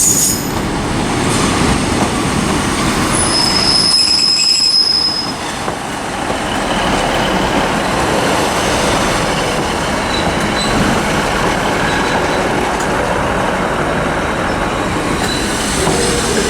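Class 156 diesel multiple unit arriving into a terminal platform: a steady rumble of diesel engines and wheels, with high-pitched wheel squeals about three to five seconds in and thinner squeals again later on.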